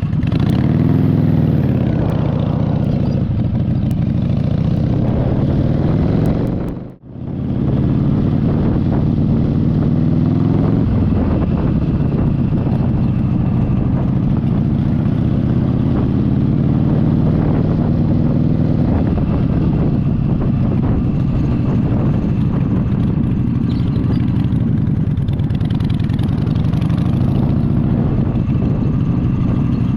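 Motorcycle engine running under way, its pitch rising and falling as the revs change. The sound drops out briefly about seven seconds in, then carries on.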